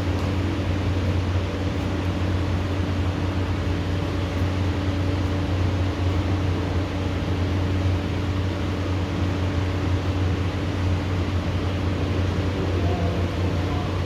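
Steady hiss of rain falling during a thunderstorm, with a constant low machine hum underneath and no thunder claps.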